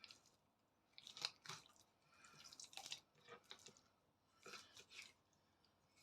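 Knife cutting a breast off a raw chicken carcass: faint wet squishing and crunching in a few short bursts as the blade works along the breastbone.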